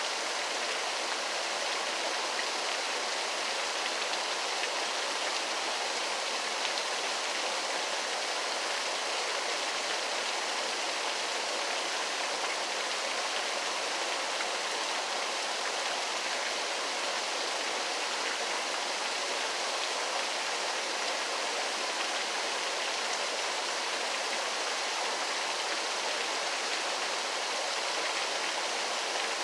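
Waterfall: a steady rush of falling water, mostly hiss with little low rumble.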